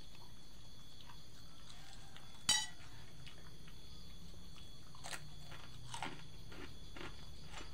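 Eating at a meal: a few short clinks and clicks of a utensil on a plate, the loudest about two and a half seconds in and softer ones near the end, over a steady background noise.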